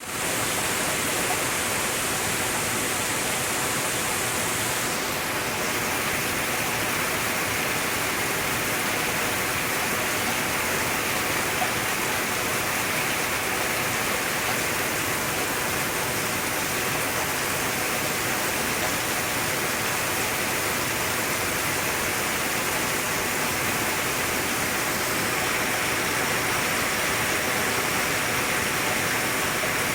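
Rain falling steadily: a continuous, even hiss with no single drops standing out.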